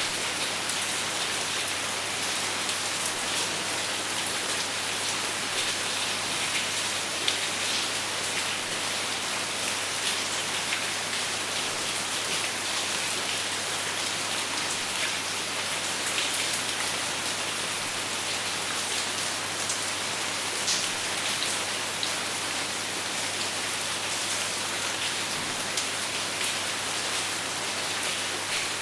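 Steady rain falling without thunder, an even hiss with scattered sharper drop hits, over a faint low steady hum.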